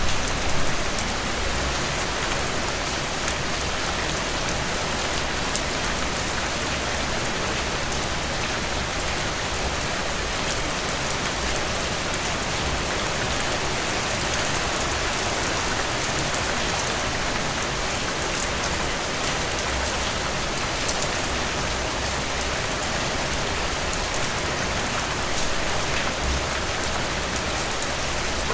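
Steady rainfall: an even hiss of many drops with scattered sharper drop ticks, unchanging throughout.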